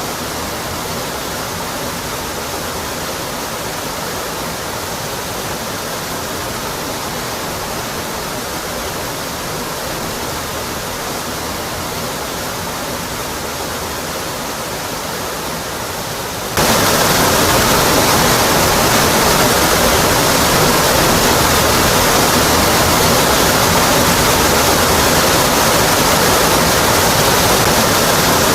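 Waterfall rushing with a steady, even roar of water striking rock. About two-thirds of the way through it jumps suddenly louder and fuller, then runs on steady.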